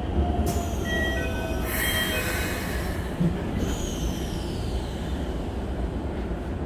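Keikyu 1000 series electric train running, heard from inside the passenger car: a steady low rumble of wheels on rail, with short high-pitched wheel squeals between about one and two and a half seconds in.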